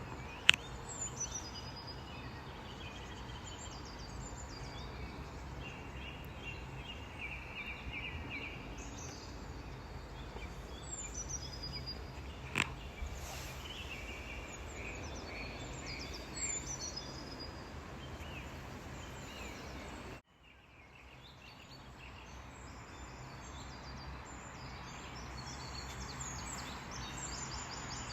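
Small birds chirping and twittering over a steady low hum, with two sharp clicks. The sound cuts out abruptly about two-thirds of the way through, then fades back in with the birdsong.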